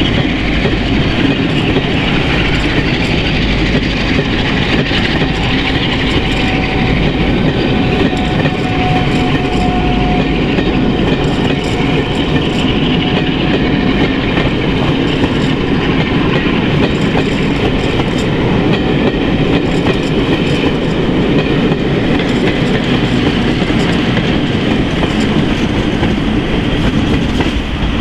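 A rake of railway passenger coaches running past on the track, a steady, loud rolling noise of wheels on rails. A faint thin whine comes and goes in the middle.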